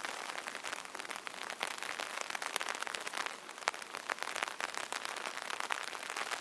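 Rain pattering on an open umbrella's fabric canopy: a dense steady patter of many small drop ticks, with now and then a larger drop striking a little louder.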